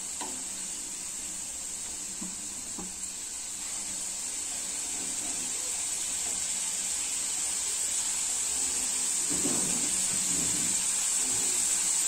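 Chicken tikka pieces sizzling as they shallow-fry in oil in a flat pan, a steady hiss that grows gradually louder while the pieces are turned with tongs.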